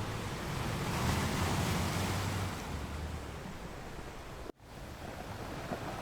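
Ocean waves washing in: the surf swells a second or so in and then eases back. About four and a half seconds in the sound cuts out for an instant.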